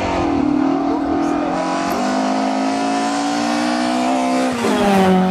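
A rally car's engine running hard at high revs as the car passes. The revs dip once about two seconds in and climb sharply near the end.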